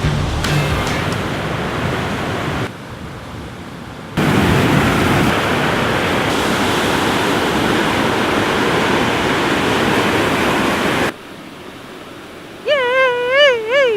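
Steady rush of a river waterfall, heard in several clips of different loudness and loudest from about four to eleven seconds in. Near the end comes a short, wavering high whine that falls in pitch as it ends.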